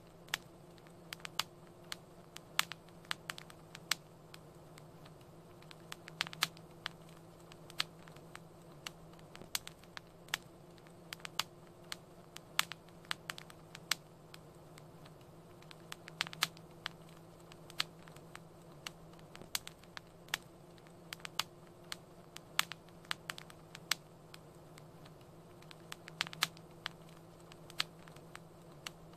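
Wood fire crackling in a fireplace: irregular sharp pops and snaps, sometimes in quick clusters, over a steady low hum.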